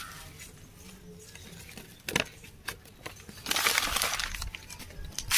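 Dry ingredients being added to a mixing bowl: a few sharp clinks of a spoon or container against the bowl, and about a second of rustling hiss from powder or a packet near the middle.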